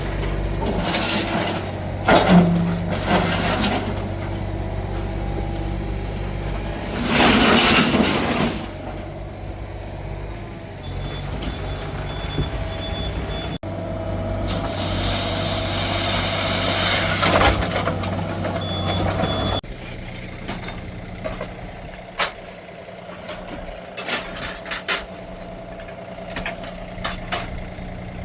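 A large vehicle's engine running steadily, with several loud hissing bursts of a second or more, and brief high beeps twice.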